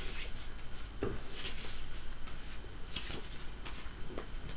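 A few soft, brief rustles and handling noises over a faint steady background.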